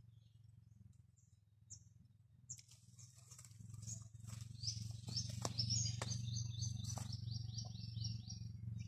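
A songbird calling: a few scattered high chirps, then from about two and a half seconds in a fast run of short, falling whistled notes, about six a second, that grows louder. Under it a low rumble swells and a few sharp clicks sound, as fruit-laden branches are pulled and handled.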